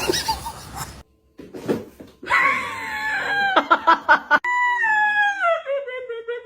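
A long, drawn-out animal cry that slides slowly down in pitch for about four seconds.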